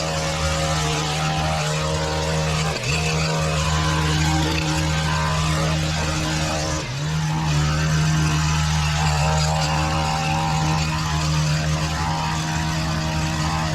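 Small petrol engine of lawn-care equipment running steadily at high speed, with a strong even pitch that dips briefly twice.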